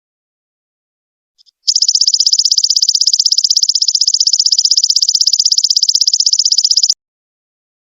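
Belalang emas ('golden locust') insect calling: a loud, high, fast and evenly pulsed trill. It begins about a second and a half in after a brief chirp and cuts off sharply near the end.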